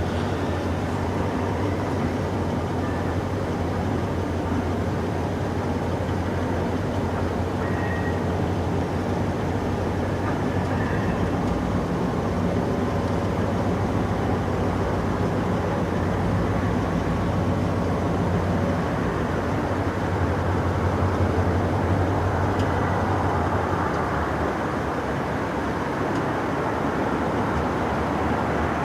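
Steady low engine drone under a constant noisy hiss, unchanging throughout.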